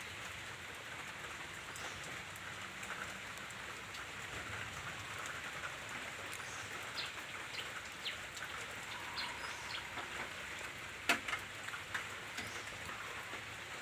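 Light rain falling steadily, a soft even hiss, with scattered faint drip ticks and one sharp click about eleven seconds in.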